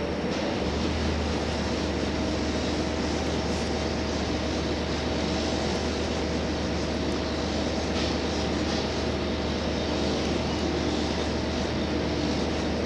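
Running sound inside a JR Hokkaido H100 diesel-electric railcar (DECMO) under way: a steady drone of the engine and drive with rail noise, heard from the passenger cabin. A low hum steps up just under a second in and then holds steady.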